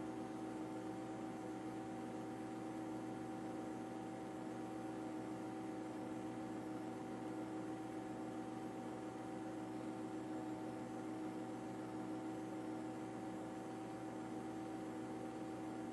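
A steady machine hum holding a few constant tones, unchanging throughout.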